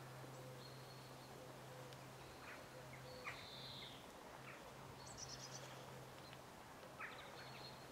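Faint birdsong: a few scattered high whistles and chirps, one quick trill about five seconds in, over a steady low hum.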